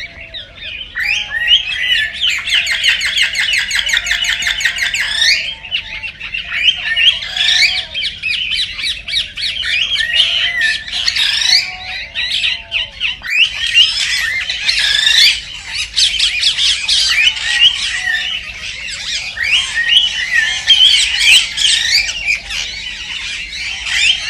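Cockatiel chirping and whistling nonstop, with a fast rattling run of repeated notes a couple of seconds in: the excited song a male gives in courtship.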